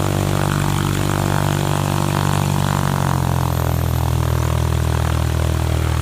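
A toy airplane's electronic engine sound effect: a loud, steady, buzzing drone that dips slightly in pitch about three seconds in.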